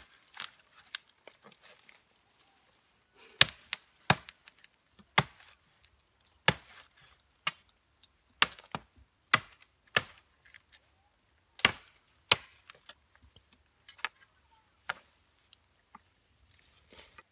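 An axe chopping wood: sharp, irregular blows about one a second, with a short pause about two seconds in.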